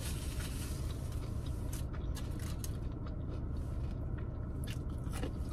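Close-up chewing of fried battered fish: soft, irregular mouth clicks and smacks over a steady low hum.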